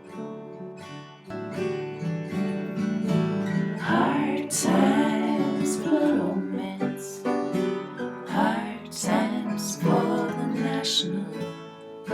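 Acoustic guitar music, strummed and picked chords, growing louder about a second and a half in.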